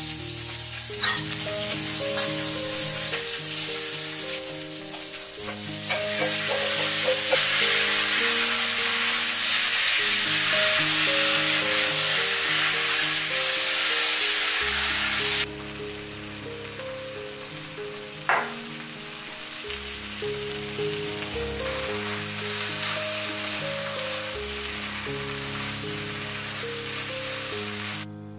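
Stir-frying over high heat in a cast-iron wok: sliced chilies sizzling in hot oil, then marinated small octopus and vegetables frying louder as they are tossed with wooden spatulas, the sizzle dropping back about halfway. A couple of sharp knocks of a spatula on the pan; soft background music underneath.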